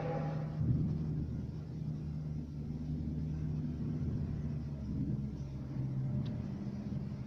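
Low, steady droning hum made of a few held tones that shift slightly in pitch, with a higher wailing tone fading out in the first half-second: the strange sound heard after a thunderstorm, which the uploader takes to come from the sky.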